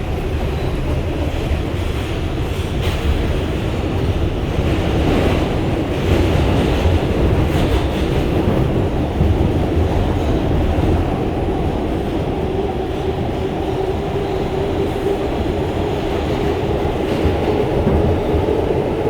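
Running noise inside an R142 subway car travelling at speed on the express track: a steady rumble of wheels on rail with scattered clicks. A steady hum grows clearer in the second half.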